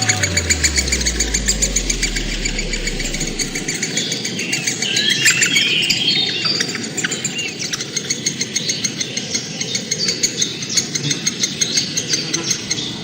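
A flock of birds chirping and twittering together, a dense run of quick high calls. A low hum slides down in steps over the first few seconds.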